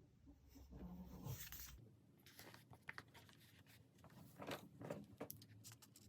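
Faint crinkling and rustling of stickers and paper being handled and peeled for diary decorating, with a few light clicks and taps.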